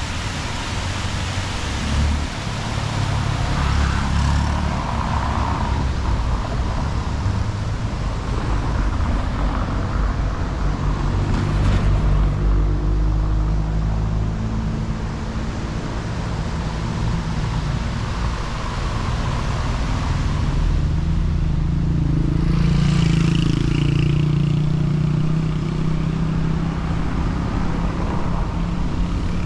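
Road traffic: several cars driving past one after another, a steady mix of engine hum and tyre noise that swells and fades as each goes by.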